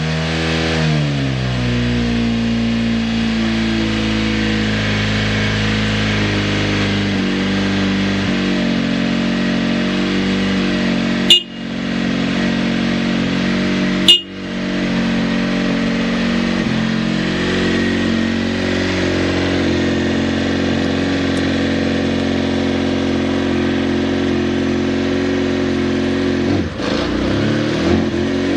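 Kawasaki ZXR400R inline-four engine idling steadily at around 2000 rpm after settling from a brief rev at the start, with no abnormal noises. Two sharp cracks are heard about 11 and 14 seconds in, and the revs begin to rise near the end.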